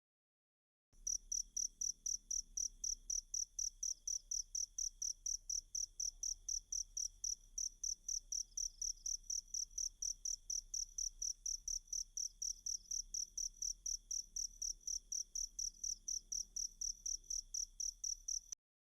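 Cricket chirping in a steady, even rhythm of about four high-pitched chirps a second; it starts about a second in and cuts off suddenly just before the end.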